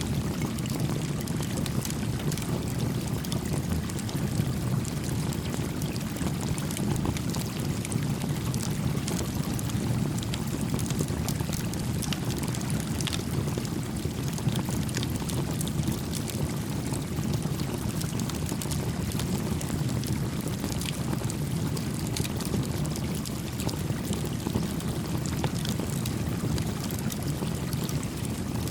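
Steady rush of a gently flowing creek, with a small campfire crackling over it in frequent sharp little pops.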